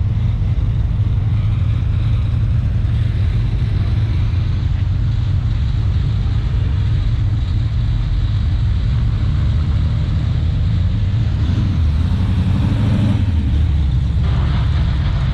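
A motor vehicle running with a steady, loud low rumble; its tone shifts about twelve seconds in.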